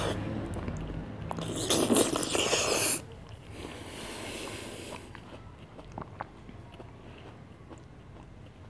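Close-miked biting and chewing of persimmon (amlok) fruit, wet mouth sounds. The loudest stretch comes about one to three seconds in and stops abruptly, followed by softer chewing with small clicks.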